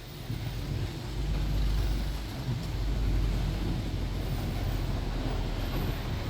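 Low engine and road rumble of a tour bus in motion, swelling about a second in, over a steady hiss of wind and street noise.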